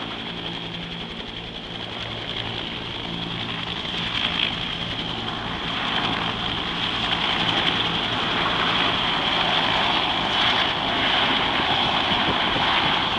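AH-1 Cobra attack helicopter in flight: rotor throb with a high turbine whine, growing steadily louder as it comes closer.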